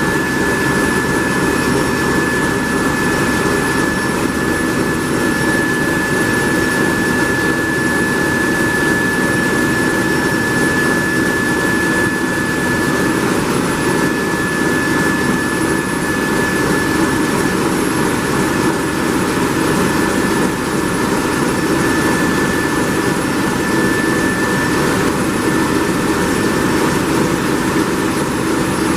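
Large MaK marine diesel engine running steadily: a loud, unchanging din with a steady high whine over it.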